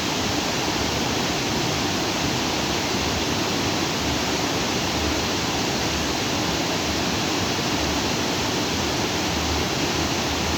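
Stream water flowing freely among rocks: a steady, unbroken rushing.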